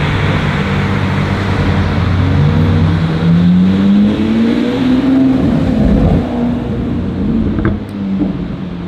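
Supercar engine accelerating, its pitch rising for about three seconds as it passes, then easing off. The lower running of other engines sounds underneath.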